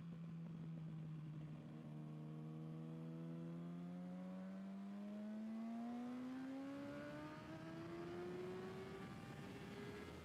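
Sport motorcycle engine on a race track, heard from an onboard camera. It holds a steady note for about four seconds, then rises smoothly in pitch as the bike accelerates, and levels off near the end.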